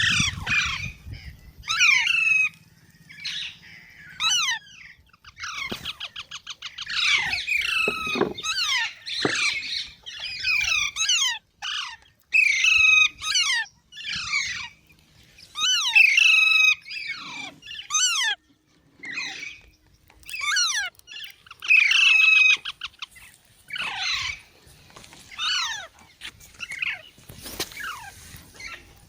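Green parrot screeching: many short, harsh calls that slide down in pitch, coming in irregular bunches, with a few rapid rattling trills among them.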